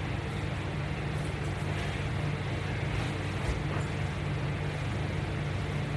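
A steady low hum with an even background hiss, broken by a couple of faint clicks.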